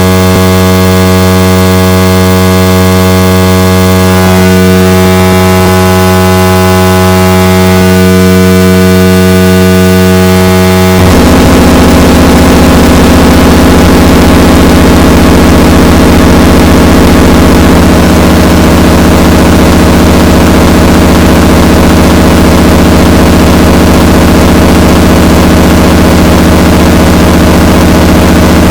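Loud, distorted electronic noise music: a steady drone of stacked buzzing tones over hiss. About eleven seconds in it shifts abruptly to a denser, harsher low drone.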